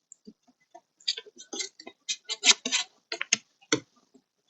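Irregular clicks and taps of plastic door trim and cables being handled while the cables are fed through a car door panel, in quick uneven runs from about a second in.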